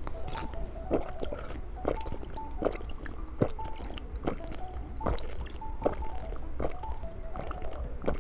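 Soft background music, with small liquid drips or sips, each a sharp click, coming a little less than once a second.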